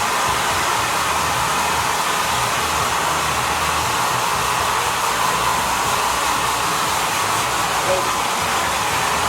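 Creates Holistic Cure Dryer Rp. hair dryer running steadily on its drying mode: a continuous rush of blown air with a faint steady whine running through it.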